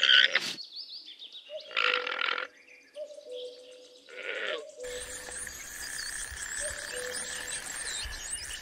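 Alpacas calling: three short, harsh, throaty calls over a faint steady hum. About halfway through this gives way to outdoor ambience with small birds chirping.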